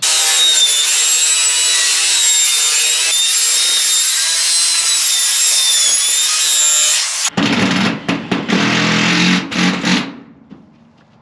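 Power tool cutting metal trim, a loud, steady screech with a high, wavering whine for about seven seconds. It then gives way to a lower, uneven running sound that dies away about ten seconds in.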